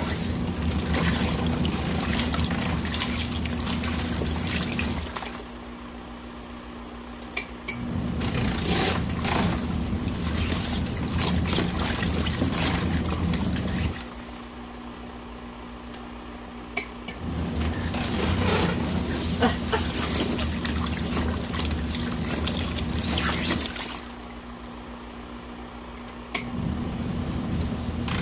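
Compact RV washing machine without an agitator washing a load at a high water level: its motor hums and the water sloshes in runs of about five to six seconds, stopping for about three seconds between runs. A click sounds near the end of each pause.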